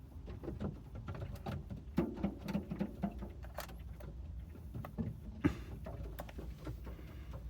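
Birds' feet and beaks tapping and scratching on a car roof as they feed: an irregular run of light taps and clicks.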